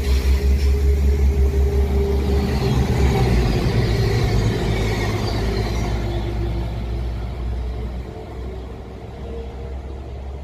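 A train passing, with a deep rumble and a steady hum that dies away over the last few seconds.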